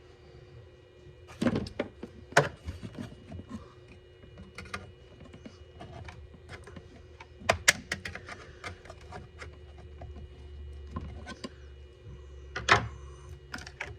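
Hard plastic parts clicking and knocking as a battery terminal cover piece is pushed and worked into place, in irregular sharp knocks with pauses between, over a faint steady hum.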